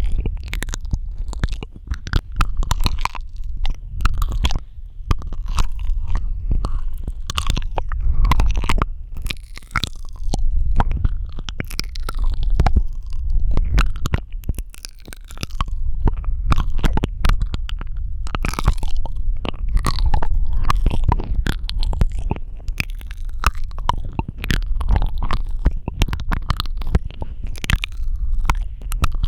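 Close-miked ASMR mouth sounds: a dense, irregular stream of wet clicks, smacks and crackles from the lips and tongue, over a constant low rumble.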